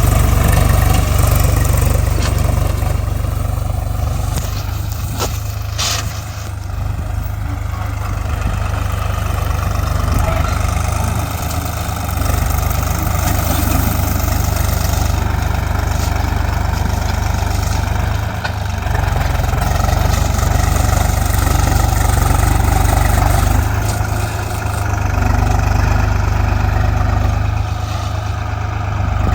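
Swaraj 735 FE tractor's three-cylinder diesel engine running continuously, its level dipping briefly several times and picking up again.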